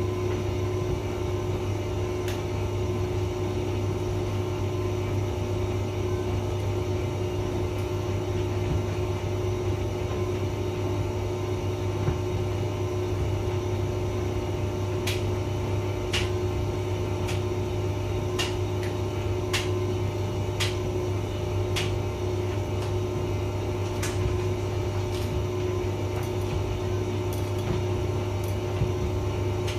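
Hotpoint vented tumble dryer running: a steady motor and drum hum with a low drone and a constant tone above it. From about halfway through, a dozen or so sharp clicks come at irregular intervals over the hum.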